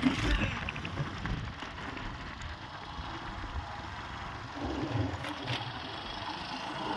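Motorcycle running steadily on the road while being ridden, with road and wind noise.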